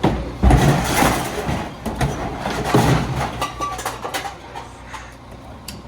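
Garbage truck engine running steadily, with a few loud clanks and bangs from the truck's working parts or cans in the first three seconds.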